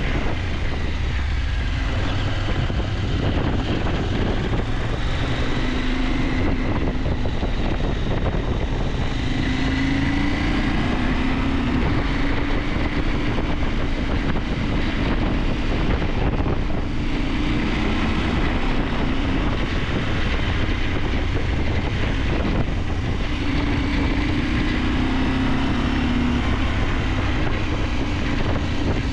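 KTM 890 Adventure's parallel-twin engine running on the move, its note rising and falling several times over a steady rush of wind on the microphone.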